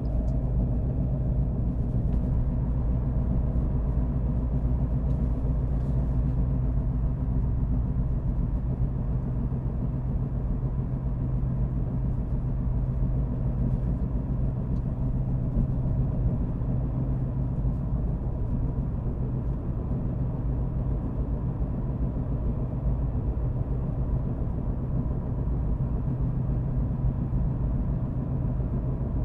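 Car driving at a steady speed: a constant low rumble of engine and road noise with a steady low hum.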